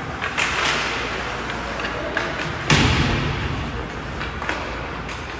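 Ice hockey play echoing in an arena: scattered knocks of sticks and puck, and one loud bang against the rink boards a little under three seconds in.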